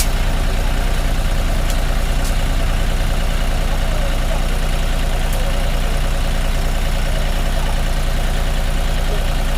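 Tractor diesel engine running steadily at an even, low pitch, with no change in speed.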